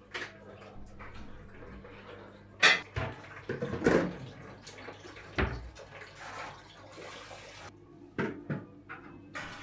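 Scattered knocks and clatter of objects being handled, the loudest a little under three seconds in, over a faint steady low hum.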